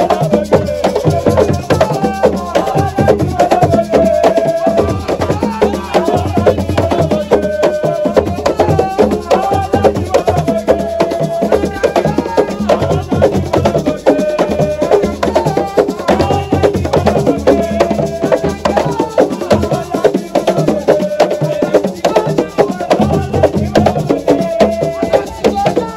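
Senegalese assiko music: dense, fast percussion with a voice singing a melody of held notes over it.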